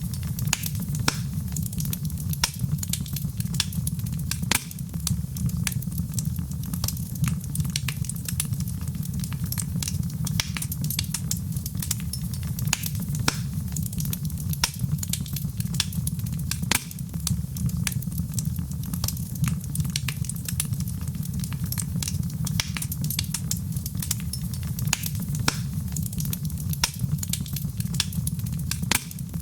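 Wood fire burning in a fireplace: many irregular sharp pops and snaps over a steady low rumble of the flames.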